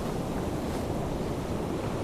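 Ocean waves washing on the shore: a steady, low hiss of surf, easing off from the louder wash just before it.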